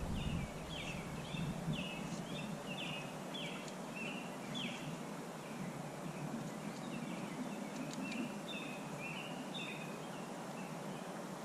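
A bird singing a long series of short, quick, high chirping notes, repeated over and over, above the steady rush of the creek.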